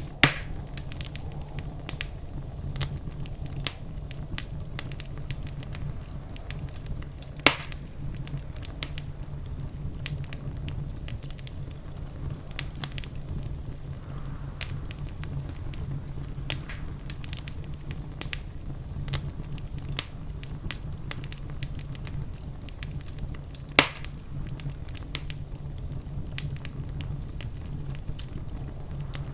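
Wood fire burning in a fireplace: a steady low rumble under constant small crackles, with three louder pops, one right at the start, one about seven seconds in and one near the three-quarter mark.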